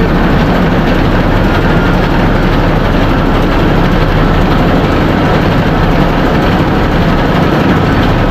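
Ship's engine-room machinery running with a loud, steady din.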